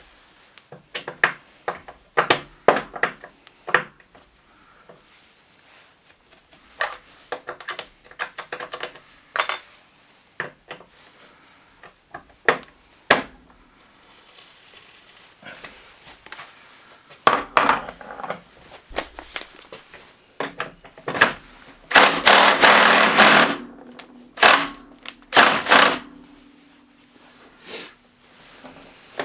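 Workshop handling of tools and metal parts: a run of separate clicks and knocks, with a loud hiss lasting about two seconds roughly three quarters of the way in.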